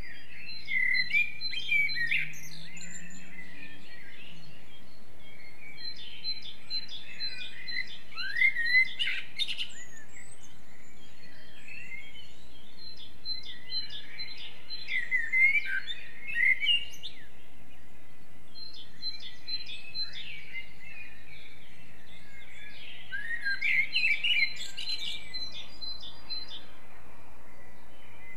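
Songbirds singing in a forest: song phrases of a few seconds each, made of quick chirps, trills and rising and falling notes, repeating every six or seven seconds over a steady background hiss.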